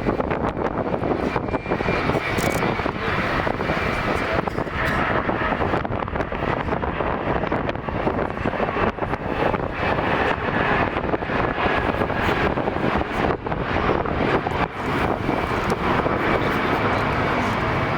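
Jet airliner's engines running: a steady, dense rumble with a faint high whine over it.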